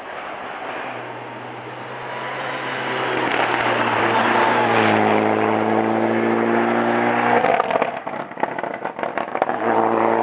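Rally car coming up at speed, its engine note and tyre noise building to the loudest point around the middle. It is followed by a run of sharp crackles and pops as the steady engine note drops away, before the engine pulls hard again near the end.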